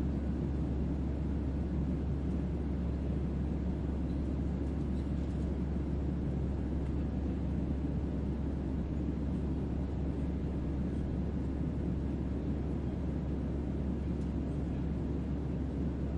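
Steady sci-fi starship ambience made for sleep: an unchanging deep bass hum under a soft, even hiss of white noise.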